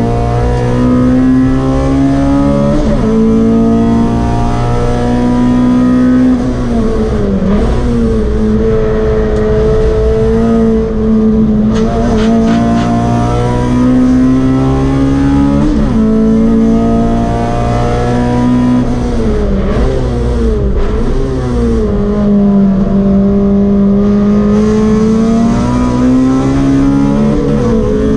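Honda Civic EG's B18C 1.8-litre DOHC VTEC four-cylinder heard from inside the cabin, running hard under load on a fast lap. Its pitch climbs and falls, with quick dips and jumps at gear changes several times.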